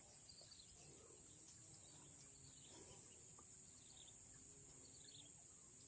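Near silence: faint outdoor ambience with a steady high-pitched insect drone and a few faint chirps.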